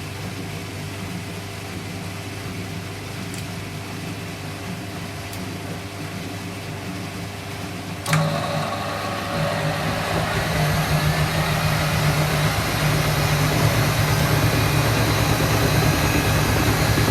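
Washing machines running with a steady motor hum. About eight seconds in there is a sharp click, and a motor starts up, getting louder over the next few seconds as the drum speeds up, typical of a machine ramping towards its spin.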